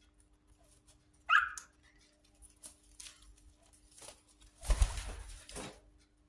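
A cockatiel gives one short, sharp squawk about a second in. Near the end comes a louder burst of rustling, scuffling noise lasting about a second.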